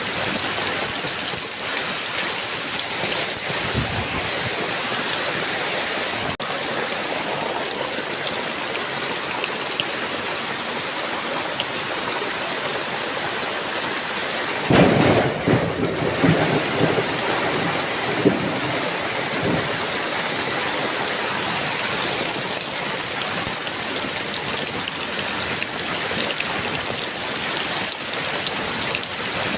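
Heavy rain falling steadily. About halfway through, a thunderclap breaks in and rumbles on for several seconds before fading back into the rain.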